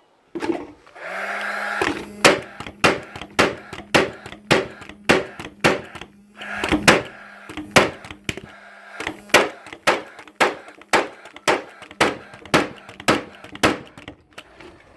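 Paslode IM65A gas nail gun firing in quick succession, about two shots a second, while its combustion fan motor hums steadily; the fan stops a little past halfway and the shots carry on.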